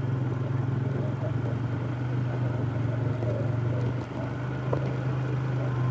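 Fuel-injected Polaris ATV engine running at a steady, even pace while riding a trail, a constant low drone.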